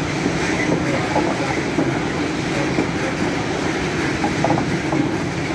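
Freight train of bogie hopper wagons rolling past, a steady, even noise of wheels running on the rails.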